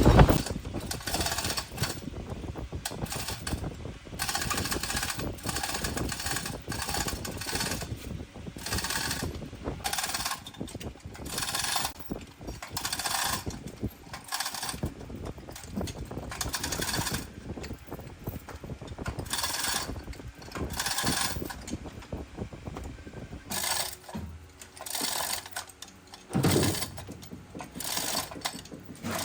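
Irregular short bursts of power-tool or tool-on-metal noise, roughly one a second, from work on a truck's clutch.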